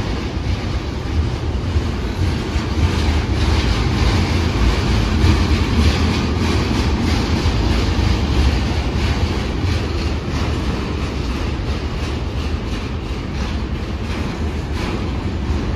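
BNSF double-stack intermodal freight train passing below, its container-laden well cars rolling by with a steady low rumble and clacking of steel wheels on the rails as the train slows down.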